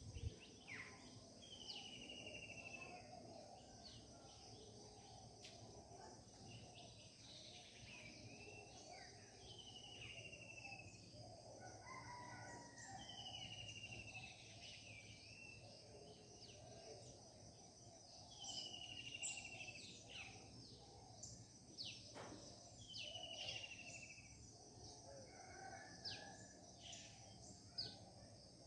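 Several birds singing and chirping, faint, one of them repeating a short falling whistled phrase every few seconds, over a steady low background hum.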